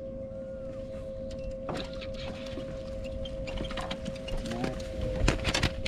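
Steady high-pitched whine of a small electric motor on a bass boat over a low rumble, with a few sharp knocks near the end.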